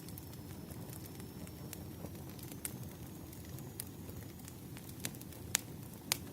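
Campfire crackling: a steady low rumble of burning wood with scattered sharp pops and snaps, two louder pops near the end.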